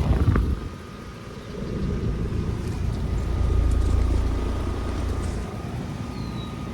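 Outdoor central air conditioner or heat pump unit running, with a faint steady whine over a low rumble that swells and eases in the middle, and wind noise on the microphone.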